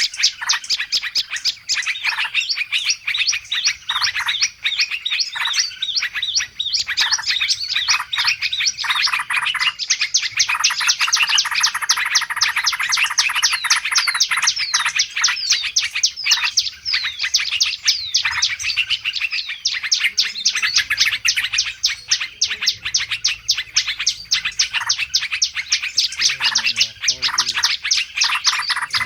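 A dense, continuous chorus of many small birds chirping and twittering noisily together, a bird-lure (pikat) recording meant to draw wild birds in. Rapid, high chirps overlap without pause, growing thicker and faster for a stretch in the middle.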